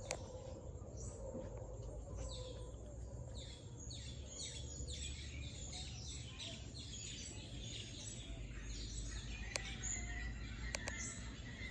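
Chorus of tropical birds calling, with many short chirping notes repeated in quick succession, over a low steady rumble and a couple of sharp clicks near the end.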